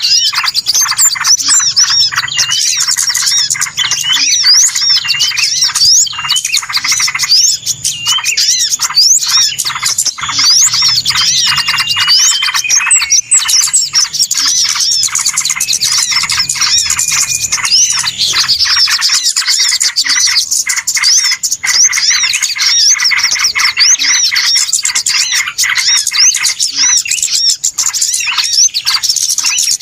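A busy chorus of many small birds chirping, twittering and calling over one another without a break: a noisy bird-lure (pikat) recording used to attract wild birds.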